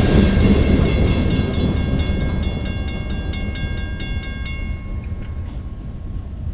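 A manifest freight train rolling past and fading away: its wheels rumble on the rails, with a rapid run of metallic clicks, about four or five a second, and a ringing tone that stop about four and a half seconds in.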